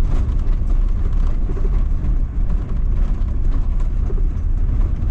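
Heavy van driving slowly over a rough, rocky dirt road: a steady low rumble with irregular knocks and rattles from the tires and suspension going over stones.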